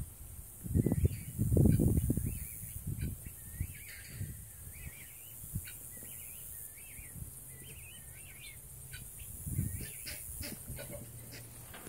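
A songbird singing the same short warbled phrase over and over. Loud bursts of low rumble come in the first few seconds, and a faint steady low hum sets in about halfway through.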